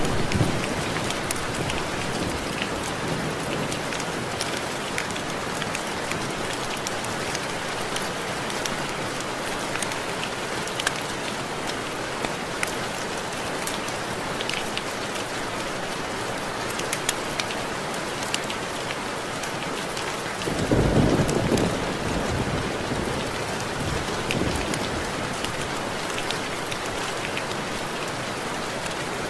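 Steady rain with individual drops ticking against window glass. About two-thirds of the way through there is a brief low rumble.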